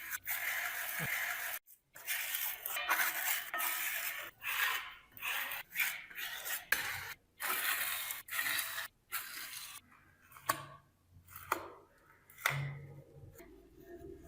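Repeated hand scraping or rubbing strokes on rusty metal, roughly one stroke a second, as in rust removal. After about ten seconds the strokes give way to a few sharp metallic clicks and taps.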